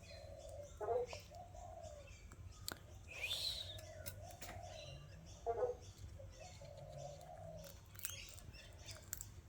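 Bird calls: a low cooing call repeating about once a second, a brief rising chirp about three seconds in, and a few sharp clicks.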